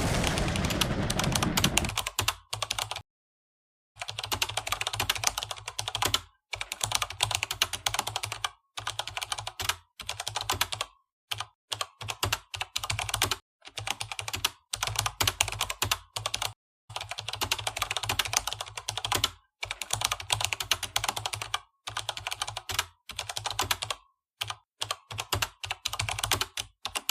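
Computer keyboard typing: rapid key clicks in bursts of one to two and a half seconds, broken by short, completely silent gaps. A low rumble sits under the first two seconds.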